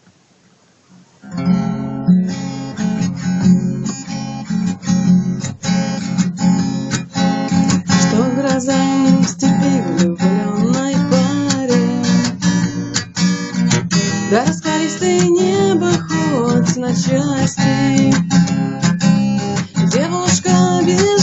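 Acoustic guitar strummed in a steady rhythm, starting about a second in after near silence, as the introduction to a song; from about eight seconds in a gliding, wavering melody line plays over the strumming.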